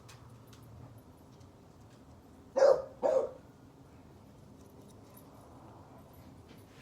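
A dog barking twice in quick succession, about half a second apart.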